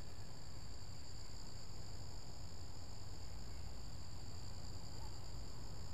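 Steady outdoor insect chorus, a continuous high-pitched trill that does not vary, over a low steady rumble.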